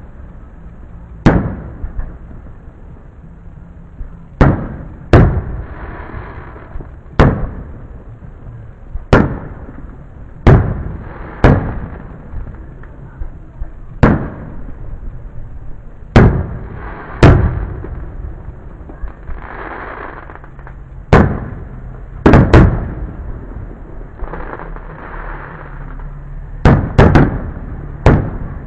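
Aerial firework shells bursting in a display, a sharp bang every one to two seconds, some in quick pairs. A softer hissing crackle follows between some of the bangs.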